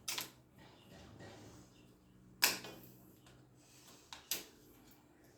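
Sharp clicks and snaps from hand tools and wiring being handled: one at the start, a loud one about halfway, and two in quick succession near the end, over a faint low hum.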